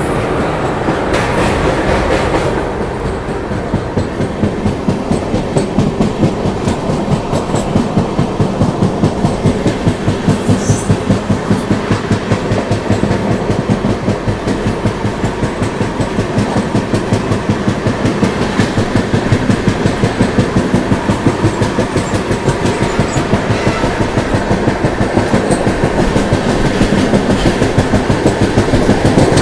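Passenger train running at speed: wheels clattering over the rails in a fast, even rhythm over a steady rumble.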